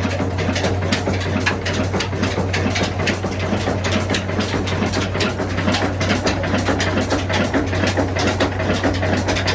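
Ruston diesel engine running steadily: a constant low drone with a fast, continuous mechanical clatter of clicks over it.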